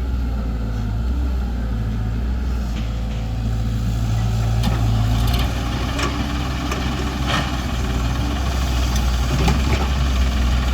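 Diesel tractor engine running steadily at low revs, with a few sharp clicks over it in the second half.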